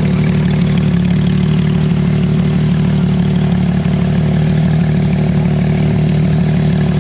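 A car engine idling steadily with a loud, deep, even note.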